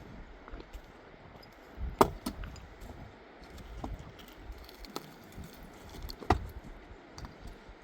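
Scattered clicks and knocks of hard objects, with two sharper, louder knocks, one about two seconds in and one about six seconds in.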